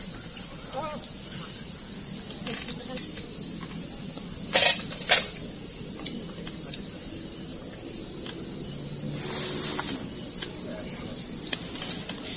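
A steady, high-pitched chorus of night insects, several unbroken shrill tones layered together. Two sharp clicks sound about halfway through.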